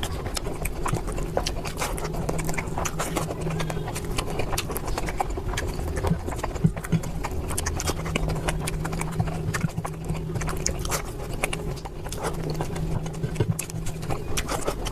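Close-miked chewing and lip-smacking of curry and rice: many small, irregular wet clicks of the mouth, over a steady low hum.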